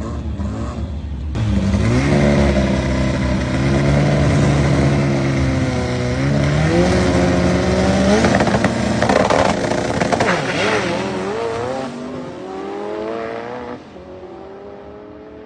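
Air-cooled Volkswagen Beetle drag car at full throttle on a quarter-mile pass: the engine comes in hard about a second in and climbs in pitch, dropping back at each gear change, then fades near the end.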